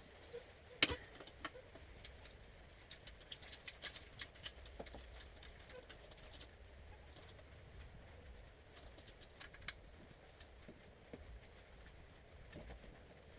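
Light metallic clicks and knocks from hand tools and parts while the kart's rear brake and axle are being taken off. One sharper knock comes about a second in, then a quick run of small clicks between about three and five seconds.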